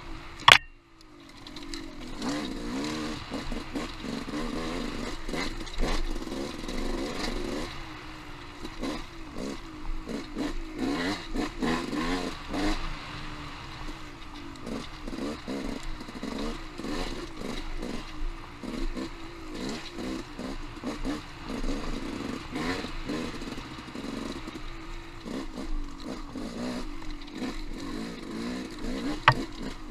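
Off-road motorcycle engine running, rising and falling as it is ridden, with frequent clatter and knocks from the bike over the ground. A sharp crack comes about half a second in, after which the engine drops away briefly before picking up again, and another sharp knock comes near the end.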